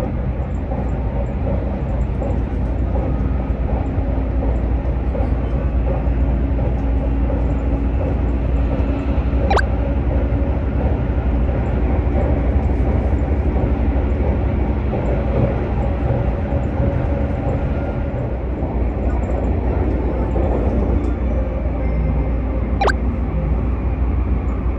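Keisei Skyliner express train running at high speed, heard from inside the passenger cabin as a steady low rumble and rush of running noise. Two brief sharp clicks sound about 13 seconds apart.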